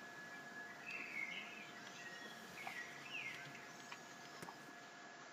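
Faint outdoor birdsong: a few short chirping, twittering calls over a steady background hiss. A couple of soft clicks from laptop keys are heard under them.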